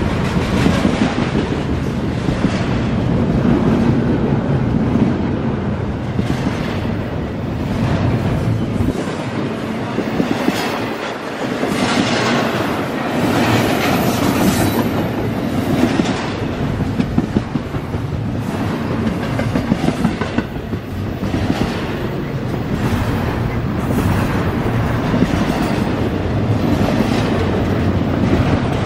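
CSX double-stack intermodal freight train rolling past: a loud, steady rumble of steel wheels on rail, with repeated clicks as the cars' wheels pass over the rail joints.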